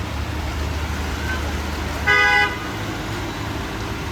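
A vehicle horn honks once, briefly, about two seconds in, over a steady low rumble of street traffic.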